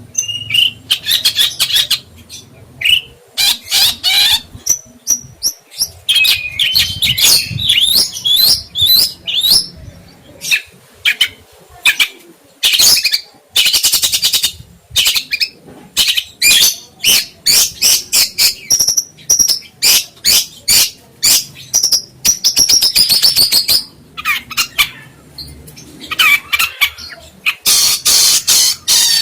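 Songbird song in a dense run of rapid chirps, sharp clicking notes and whistled trills, with short pauses between phrases.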